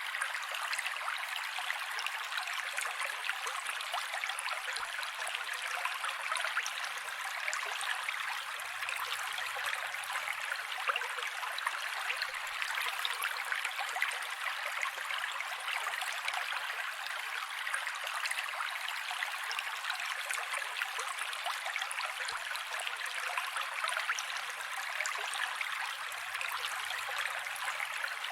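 Mountain creek water running steadily over rocks, an even rushing and splashing with no deep rumble.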